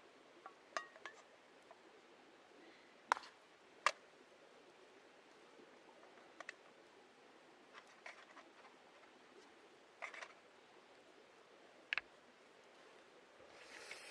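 Scattered small, sharp clicks and taps, about a dozen, over a faint steady hiss, with a short rush of noise near the end.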